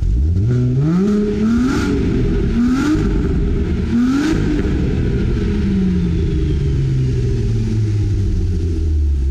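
Volkswagen New Beetle RSi's 3.2-litre VR6 engine revved at the tailpipes. It makes one rising rev, then two short blips, and the revs sink slowly back to idle in the second half.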